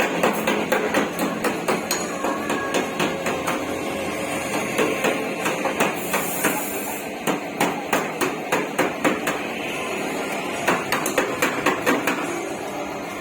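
Hammer blows on a Toyota Starlet's sheet-metal body panel, panel-beating during body repair: quick runs of sharp strikes, about three a second, with short pauses between runs.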